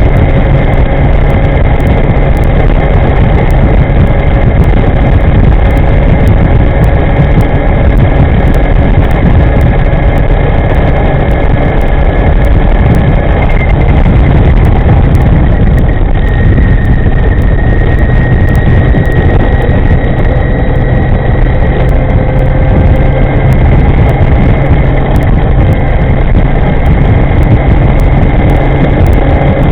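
Wind rushing over the microphone on a moving electric scooter: a loud, steady low rumble, with faint thin whines that shift slightly in pitch around the middle.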